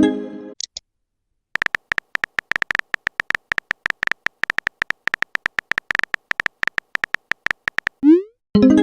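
Phone keyboard typing sound effect: a rapid, irregular run of short clicky taps for about six seconds. A message notification chime fades out at the start, and a rising swoosh and another chime come near the end.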